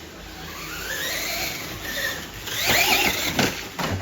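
Radio-controlled trucks' electric motors whining on a dirt track, the pitch rising and falling as they accelerate and slow, louder for a moment about three seconds in.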